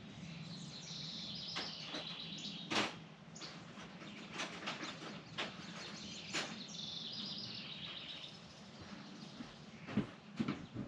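Wild birds chirping and singing, with scattered sharp clicks and knocks of hand tools on metal, the loudest near three seconds in and near the end.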